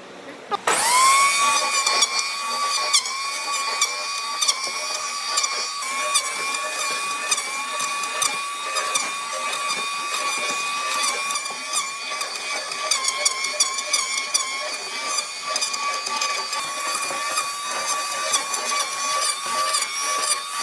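An electric power tool switches on about a second in, its motor spinning up quickly and then running at a steady high whine. Frequent sharp clicks and ticks sound over the whine as it works.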